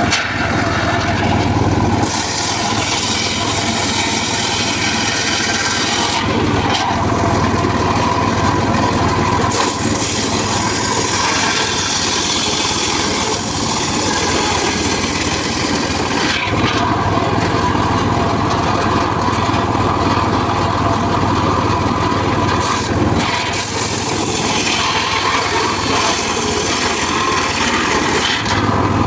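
Homemade circular saw rig running steadily, its blade cutting through mahogany in several long passes, the sound growing harsher and fuller during each cut and easing back to plain running between them.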